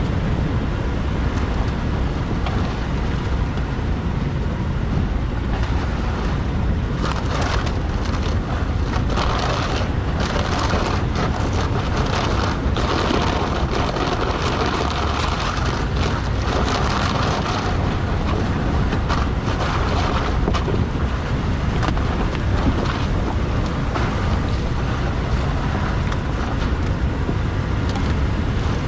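Power Wagon pickup truck driving on an unpaved forest road: steady engine and road noise, growing rougher and brighter for several seconds in the middle.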